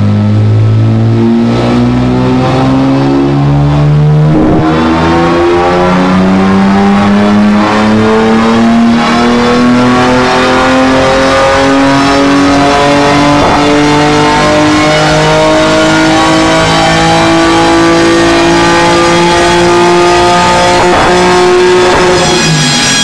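BMW S50 straight-six from an E36 M3, swapped into an E30, in a dyno pull: the engine note climbs steadily in pitch for about twenty seconds, then falls away near the end.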